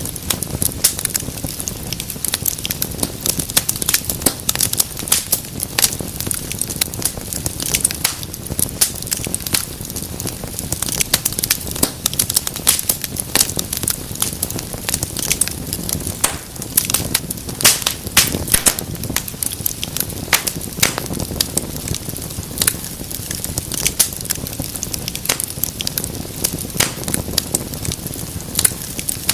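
Wood fire in a fireplace crackling steadily, with many irregular sharp pops and snaps over a low rumble of the flames.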